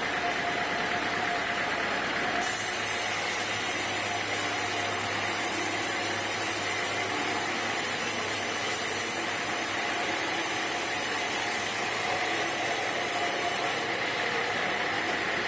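Sawmill machinery running steadily. A high hiss, with a low hum under it, starts about two seconds in and stops near the end.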